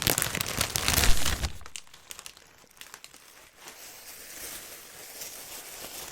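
Packing paper crinkling as it is unrolled from a wrapped item. It is loudest for the first second and a half, then goes on as quieter rustling.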